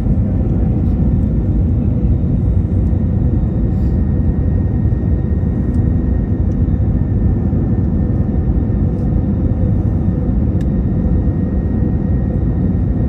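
Jet airliner engine and airflow noise during the approach to landing: a steady, loud low rumble with a faint steady whine above it.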